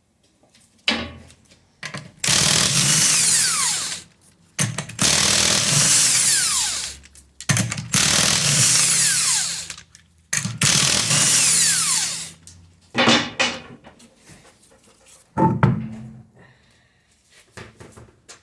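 Power impact wrench spinning the lug nuts off a car wheel in four runs of about two seconds each, with a few shorter trigger bursts around them.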